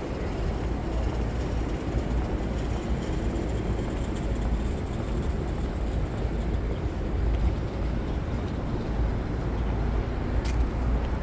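Steady low rumble of city street traffic, with one short sharp click near the end.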